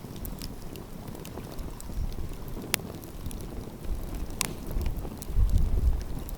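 Wood fire crackling with scattered sharp pops, two of them louder, one a little before halfway and one just after. Low wind rumble on the microphone rises in gusts past the middle.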